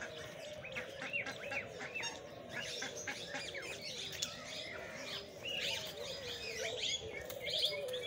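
Many birds in an aviary chirping at once, a dense run of short, high chirps overlapping throughout, growing busier in the second half.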